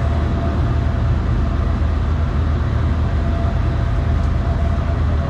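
A boat engine running steadily under way: a constant low drone with a faint steady whine above it and an even rush of noise.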